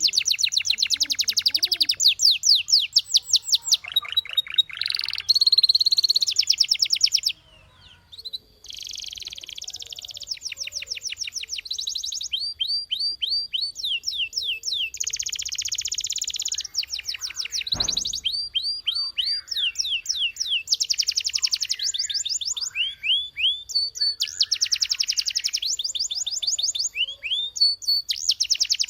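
Domestic canary singing in fast rolling trills, one rapid run of repeated notes after another, with a short pause about a quarter of the way in.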